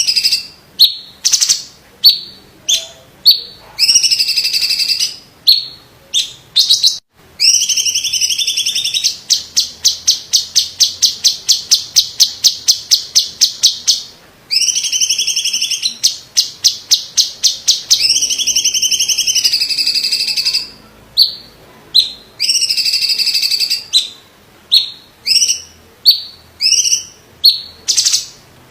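Cucak cungkok (leafbird) singing loud, sharp high notes one after another. About eight seconds in, the notes run into a long rapid rolling trill of about six notes a second, which comes again after a short break. Separate sharp notes return near the end.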